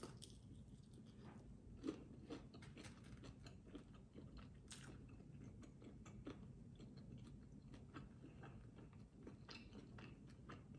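Faint close-up chewing and biting on a fried chicken wing: soft wet mouth clicks and small crunches, with a slightly louder bite about two seconds in.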